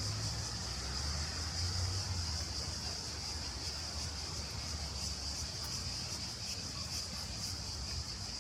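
Chorus of cicadas making a steady high-pitched buzz that pulses slightly, over a low rumble of wind or distant traffic.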